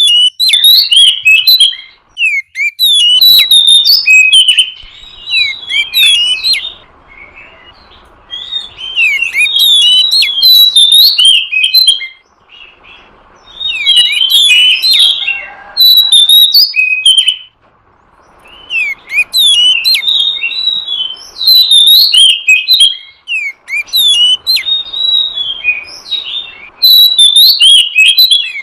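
Oriental magpie-robin (kacer) song: rapid, varied phrases of sharp chirps and whistled slurs, sung in bouts separated by brief pauses.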